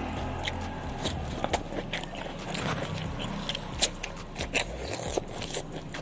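A person eating by hand close to the microphone: biting and chewing, with many sharp, irregular crunchy clicks.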